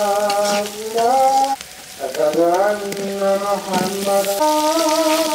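Spiced onion masala sizzling as it fries in a metal karahi, stirred with a steel spatula. Background music with long held, gliding notes plays over it and breaks off briefly under two seconds in.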